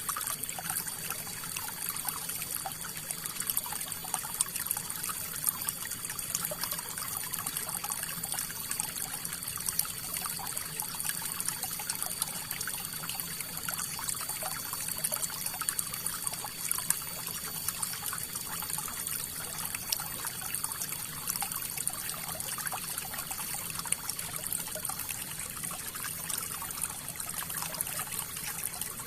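River water flowing steadily over rocks: a continuous rushing hiss dotted with many small trickling splashes.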